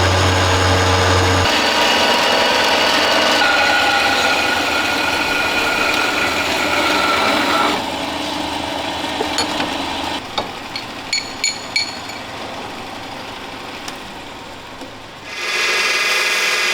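Power saw cutting steel tube: a steady grinding cut with a high ringing tone for about eight seconds. It is followed by quieter rubbing and a few sharp metal clinks, and a loud steady sound comes back in near the end.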